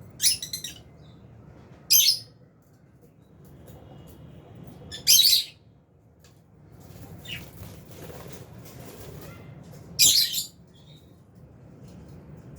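Lovebirds giving four loud, shrill, harsh chirps: one right at the start, then at about two, five and ten seconds, over a steady low background hum.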